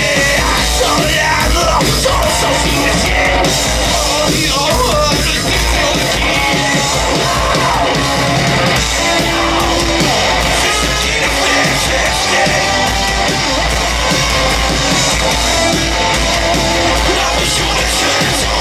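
Live punk-metal band playing loud, with electric guitars, drums and yelled vocals.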